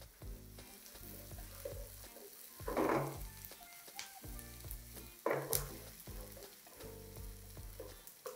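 Chopped onion, green chilli, ginger and garlic sizzling in oil in a nonstick frying pan, stirred with a wooden spatula. Two louder stirring strokes stand out about three and five seconds in.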